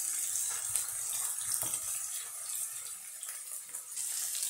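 Chopped onion sizzling in hot oil in a nonstick frying pan, stirred with a wooden spoon, with a few soft scrapes of the spoon. The onion has cooked soft, ready for the green pepper.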